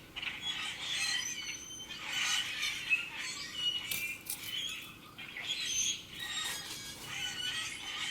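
Wild birds chirping and calling, many short overlapping calls and brief whistled notes.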